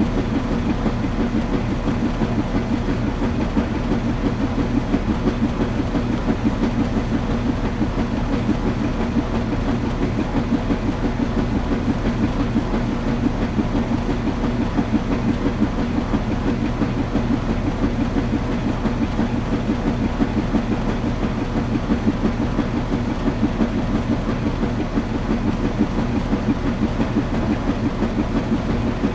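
Washing machine running: a steady motor hum with a fast, regular rhythmic pulse.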